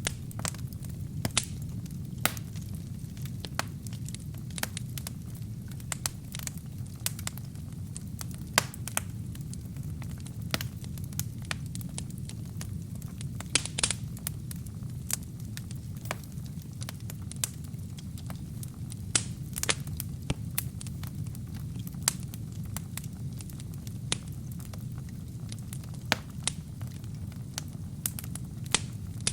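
Wood fire burning in a fireplace: a steady low rumble of flames with frequent sharp crackles and pops from the burning wood and kindling, at irregular intervals.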